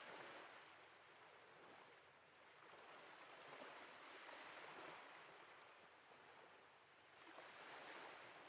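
Faint sea waves washing in and drawing back, swelling about every four seconds.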